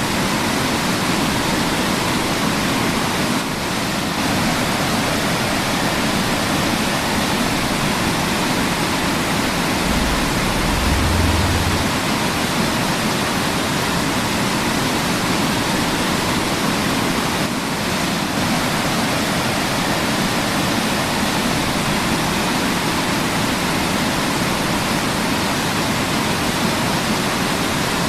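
Waterfall: a steady rush of falling water, with a brief low rumble about ten seconds in.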